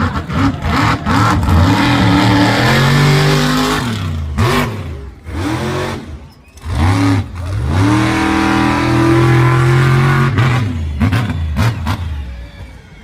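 Monster truck engine revving hard in an arena: two long pulls, each rising and held at high revs for a few seconds, with short throttle blips between them and a few more near the end as it falls away.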